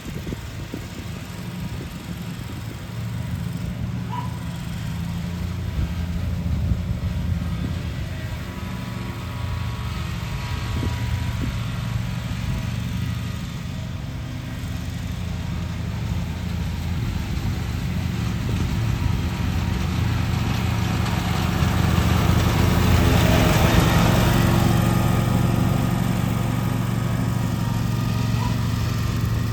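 Lawn mower engine running steadily under load while cutting grass. It grows louder about two-thirds of the way in.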